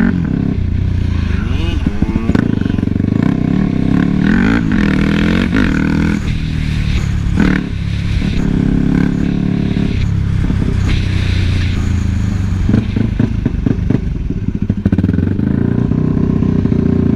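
Motorcycle engine running, its pitch rising and falling with the throttle.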